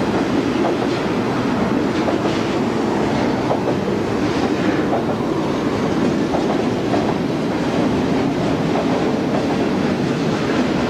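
Train rolling steadily past on the rails, a continuous wheel-on-rail noise with faint, irregular clicks from the wheels over the track.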